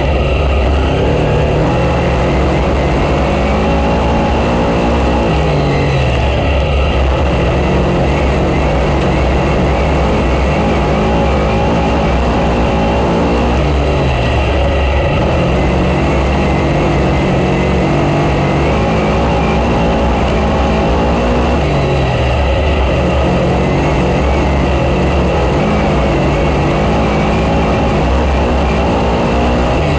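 Dirt-track race car engine running at speed, its pitch falling and climbing again every several seconds as it eases off and accelerates around the laps, over a heavy steady low rumble.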